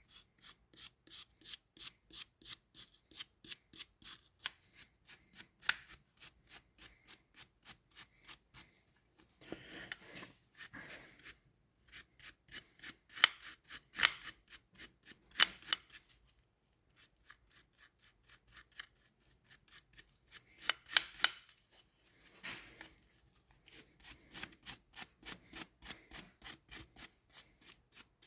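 A rag scrubbing a blower-tube clamp in quick back-and-forth strokes, about three a second, with a couple of short pauses.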